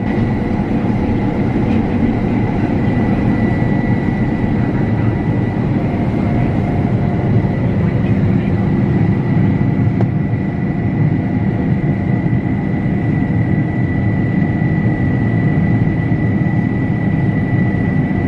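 Combine harvester running steadily: a heavy, even drone with a constant high whine over it.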